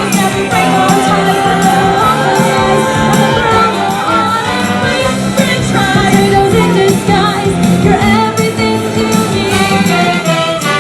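Female vocal group singing an upbeat song over band accompaniment with a steady drum beat.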